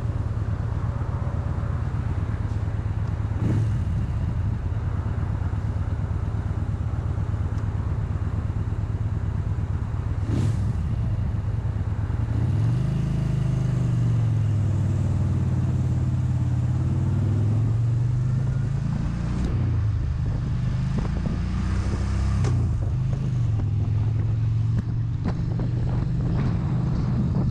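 Motorcycle engine running on the road while being ridden, a steady low hum whose pitch rises and dips several times partway through as the throttle and speed change.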